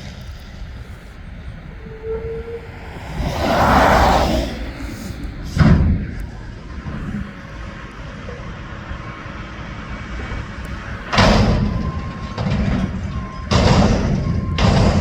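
Mack McNeilus front-loader garbage truck running, with a rushing swell about four seconds in and a series of loud bangs and thuds, one near six seconds and several more in the last few seconds.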